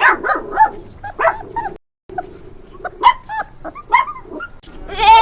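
A dog barking and yipping in short, quick, high-pitched calls, broken by a brief silent gap just under two seconds in. Near the end a goat starts bleating.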